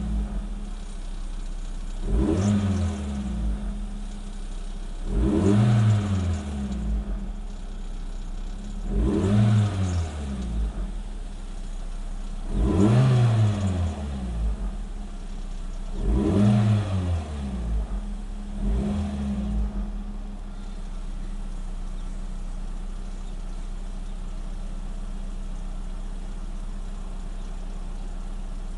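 1995 Nissan Primera P10's engine, in neutral, revved up six times about three seconds apart, each rev climbing and dropping back. About twenty seconds in it settles to a steady idle.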